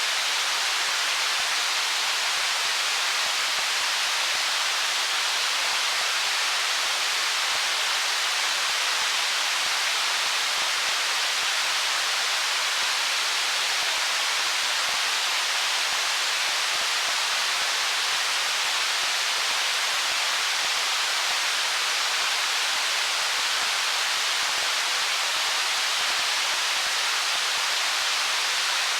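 Flowing stream water making a steady, even hiss that never changes, with almost no low rumble.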